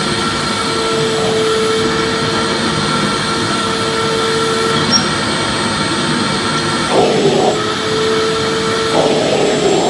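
Household vacuum cleaner running steadily with an even motor hiss and a humming tone that drops in and out, with a couple of brief wavering changes near the end.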